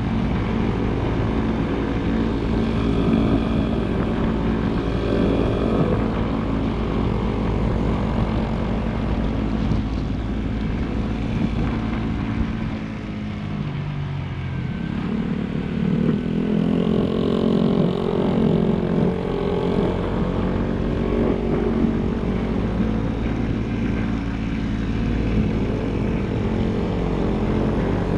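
Motorcycle engine running under way. About halfway through the revs drop, then climb again.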